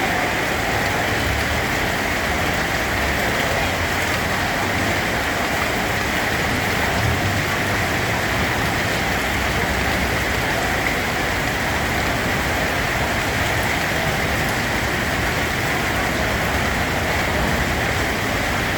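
Steady rain falling and pattering on a surface, an even hiss without breaks.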